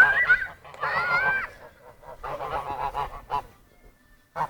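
Geese honking: several loud gliding calls in the first second and a half, then a run of quicker nasal honks, then a short lull near the end.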